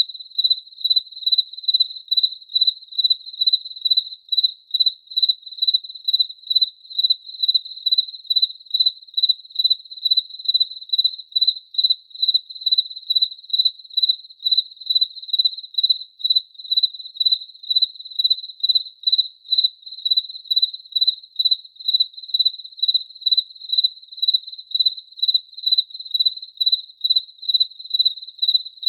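A cricket chirping steadily, with even, high-pitched chirps about twice a second.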